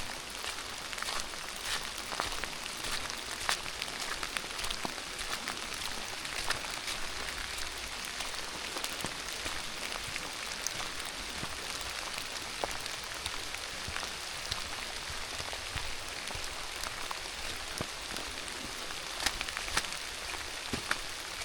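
Steady rain: an even hiss with many sharp ticks of single drops landing close by.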